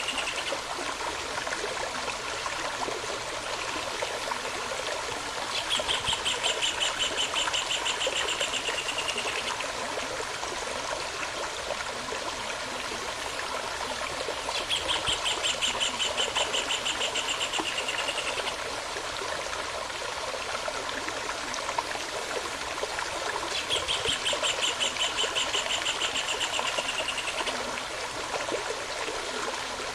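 Steady flowing stream, with a bird singing a fast, even trill of about four seconds three times, roughly every nine seconds.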